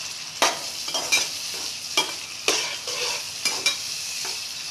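Chopped tomatoes sizzling in hot oil with fried onions and spices in a non-stick pan, stirred with a metal spatula that scrapes across the pan about eight times over a steady frying hiss.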